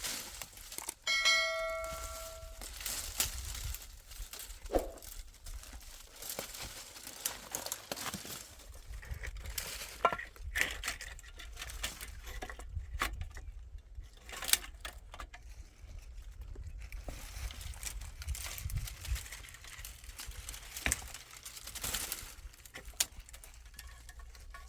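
Irregular rustling and crackling, as of dry material being handled, with scattered clicks and a short metallic ring about a second in.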